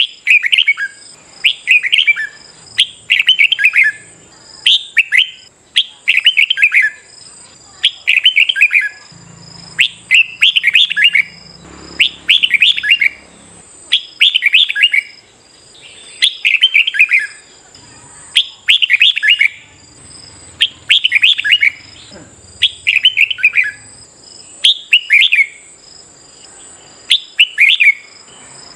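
Red-whiskered bulbul singing short, loud, warbled phrases, one about every second and a half, over and over. A faint, steady, high-pitched whine runs underneath.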